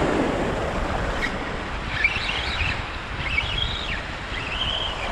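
Surf and wind buffeting the microphone on the shoreline, a steady rushing noise, with three short high-pitched calls in the second half.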